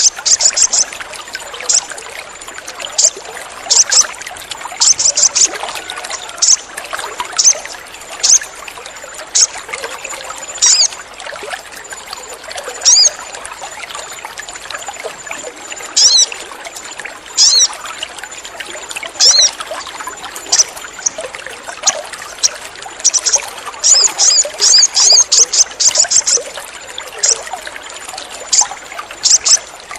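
Little spiderhunter (sogon) giving short, sharp high-pitched chips, some single and some in fast runs of several, over a steady trickle of running water.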